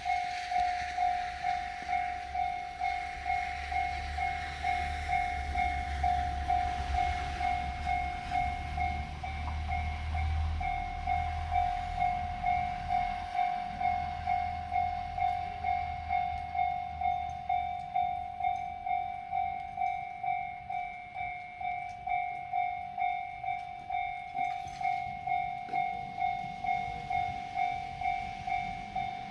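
Railway level-crossing warning bell ringing steadily, its electronic clang repeating about twice a second, over a low train rumble that fades out about halfway through.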